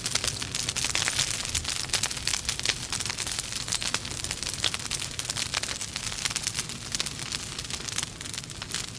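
Logs burning in a fireplace, crackling with many sharp pops over a steady hiss.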